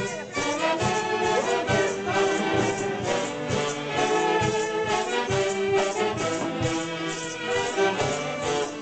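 Andean festival orchestra playing traditional music with a steady beat, brass and reeds carrying the tune over shaken percussion.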